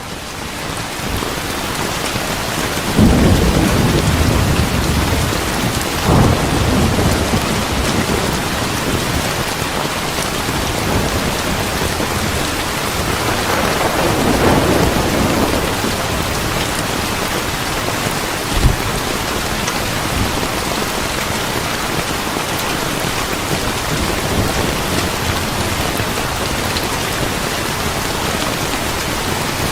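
Steady heavy rain with rolling thunder: low rumbles swell about three seconds in and again around fourteen seconds, and a short sharp thunderclap comes near nineteen seconds.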